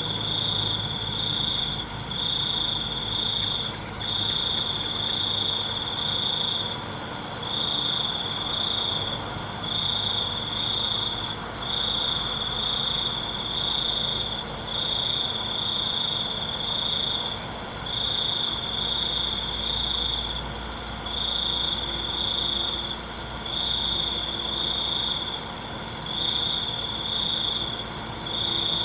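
Night chorus of crickets: one loud, high trill repeating in bouts of a second or two with short breaks, over fainter pulsing chirps and a steady high insect hum.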